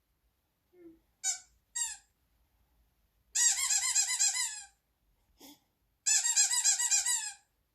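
Squeaky dog toy being squeezed: two short squeaks, then two longer runs of rapid, wavering squeaks, one in the middle and one near the end.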